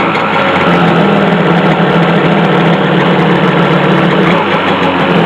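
1991 Kawasaki 550SX stand-up jet ski's two-stroke twin engine idling steadily, run out of the water with no cooling water going through it.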